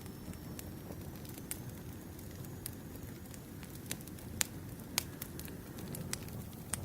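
Campfire burning: a steady low rumble of flames with sharp, irregular wood pops and crackles, the loudest pops about four and a half and five seconds in.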